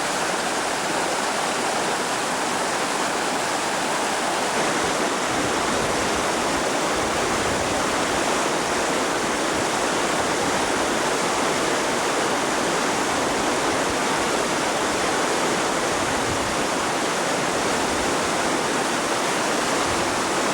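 River water rushing in a steady, even hiss.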